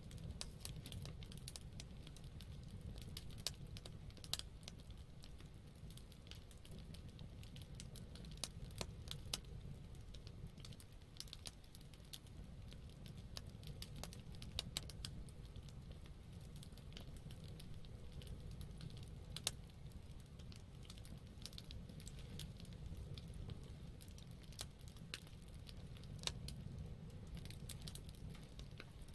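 Wood campfire burning: a low steady rumble of the flames with frequent irregular sharp crackles and pops from the burning wood.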